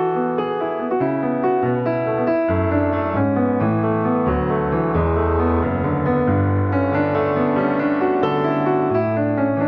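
Piano music: a steady run of notes over held low bass notes that change every couple of seconds.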